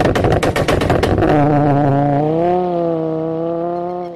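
Car engine revving with a rapid train of sharp exhaust pops over the first couple of seconds, then holding steady revs that ease slightly lower. The sound drops away right at the end.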